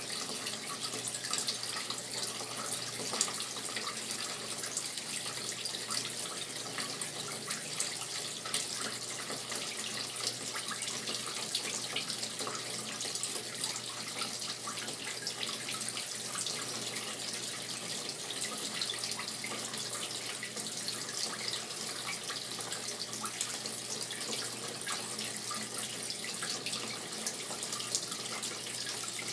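Brastemp Tira Manchas Pro 12 kg washing machine filling with water: a steady stream of water pouring and splashing into the tub. A faint low hum runs under it.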